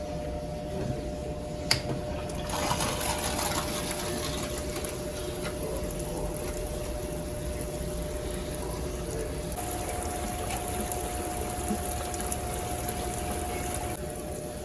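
Consul CWS12 12 kg washing machine running with a steady hum, a click about two seconds in, then water rushing through the machine until near the end.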